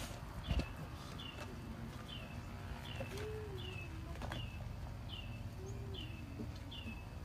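Birds calling: a high, down-curving chirp repeated steadily about once every three-quarters of a second, with a lower, rising-and-falling call heard twice. A single dull thump about half a second in.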